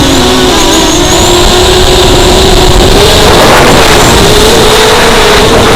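ZMR 250 racing quadcopter's brushless motors and propellers whining loudly over a heavy rush of air noise. The pitch drops within the first second, then climbs back up a little past the middle.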